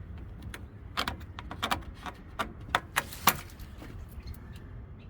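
Irregular sharp clicks and clinks of metal tools and parts being worked inside a front-load washing machine, about a dozen in all.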